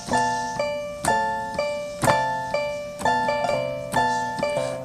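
Instrumental keyboard part in a piano sound: chords struck about every half second to a second, each left to fade before the next.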